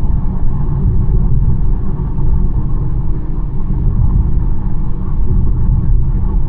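BMW 1 Series car on the move, a steady low rumble of road, tyre and engine noise with no change in pace.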